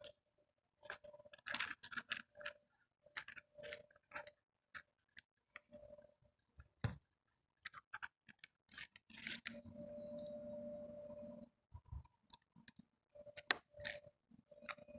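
Clicks, knocks and scrapes of hands fitting a battery into a radio-controlled model plane, with a steady hum for about two seconds a little past the middle.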